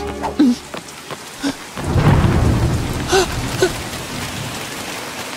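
Rain falling, with a rumble of thunder about two seconds in.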